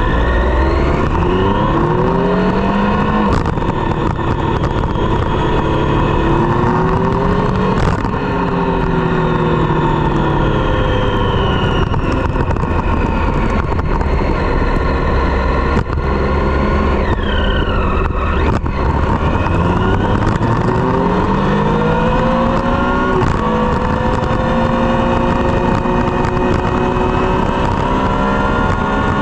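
Triumph Street Triple's inline three-cylinder engine through a Dominator GP exhaust, revving up and dropping back several times as it accelerates and slows. A few sharp cracks stand out over the engine note.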